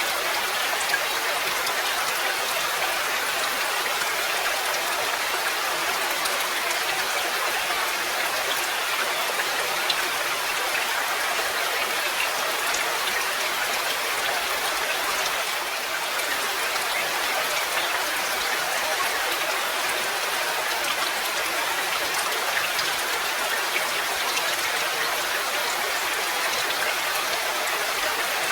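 Steady rain falling, a dense even hiss of drops with occasional single drops ticking out above it.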